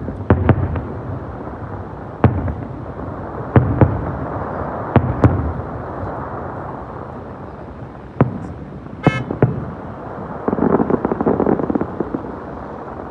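Aerial fireworks going off: a string of sharp bangs, usually one to two seconds apart, then a burst of rapid crackling about ten to twelve seconds in.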